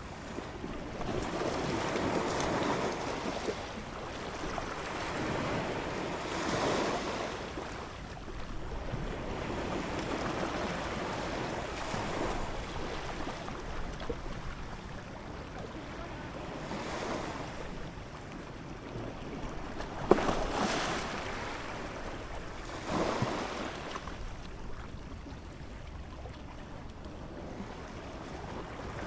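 Ocean waves breaking and washing in, the surf swelling and falling back every four or five seconds. A brief sharp snap about twenty seconds in is the loudest moment.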